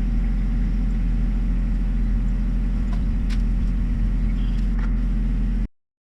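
John Deere 1025R tractor's three-cylinder diesel engine running steadily; the sound cuts off abruptly near the end.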